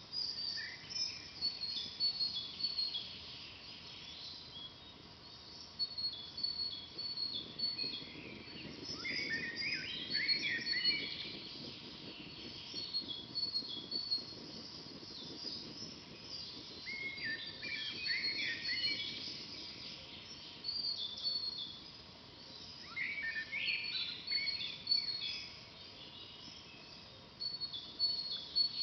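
Forest songbirds singing: a steady run of short, high chirps, with a fuller burst of warbling song three times, roughly every six to eight seconds.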